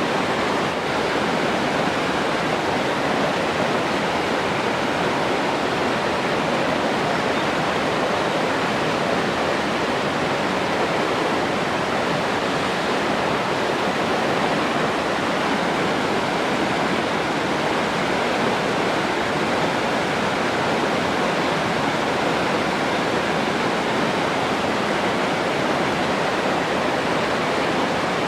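Rushing water, a steady, unbroken noise with no changes in level.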